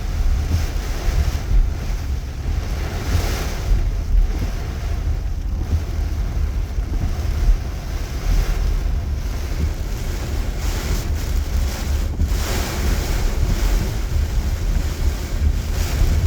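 Heavy rain falling as a steady noisy hiss, with wind gusting and buffeting the microphone in a low rumble.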